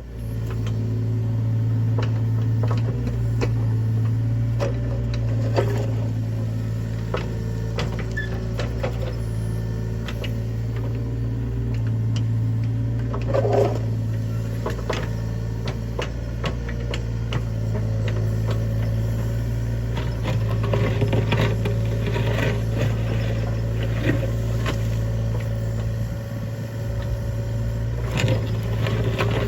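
Mini excavator's diesel engine running at a steady speed while digging, with scattered short knocks and clanks throughout.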